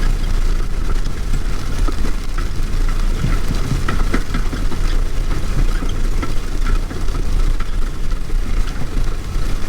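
Case IH MX240 tractor's diesel engine running steadily while pulling a disk, heard from inside the cab, with frequent small rattles and clanks over the low engine sound.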